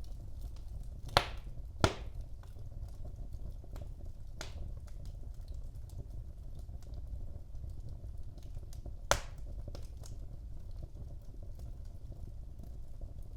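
Wood fire burning in a fireplace: a steady low rumble of flame under constant small crackles, with a few sharp pops, two of them about half a second apart a little over a second in and another about two-thirds of the way through.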